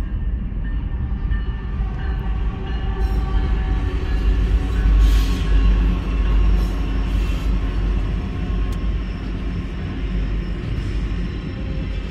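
Union Pacific diesel freight locomotive passing at a grade crossing, its engine giving a heavy low rumble that is loudest about five seconds in. The rumble then carries on steadily as double-stacked container cars roll by.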